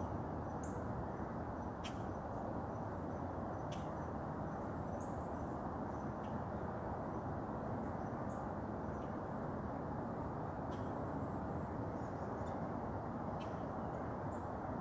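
Outdoor ambience: a steady low rushing background with faint, short, high chirps scattered every second or two.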